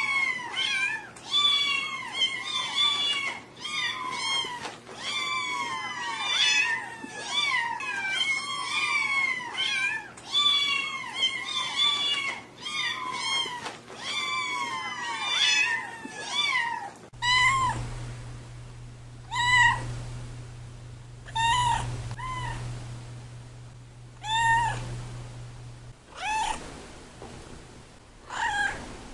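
A cat meowing over and over in quick succession. About seventeen seconds in it switches to another recording with a low steady hum underneath, where single meows come a second or two apart.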